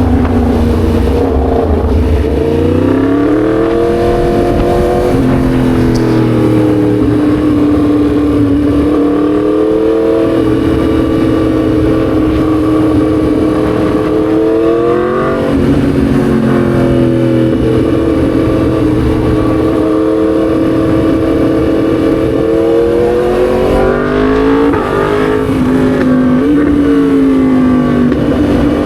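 Yamaha MT-10 SP's crossplane inline-four engine and exhaust heard from on board while riding, with wind rushing. It pulls up through the revs about three seconds in and again near the middle, holds a steady pitch in between, and rises and falls once more near the end.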